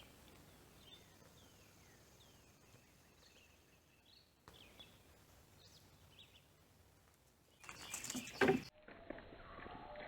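Faint small birds chirping now and then over quiet outdoor background. About eight seconds in comes a brief, louder, unidentified call.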